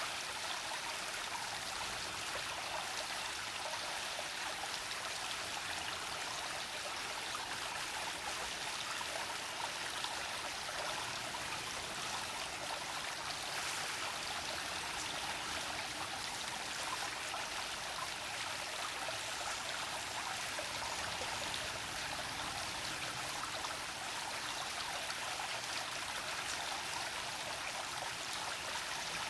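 Small brook babbling over rocks: a steady, even rush of flowing water with a fine splashing texture.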